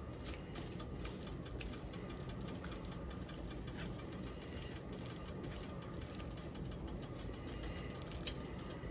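Melted butter sizzling faintly and steadily in a hot skillet, with a few faint light clicks.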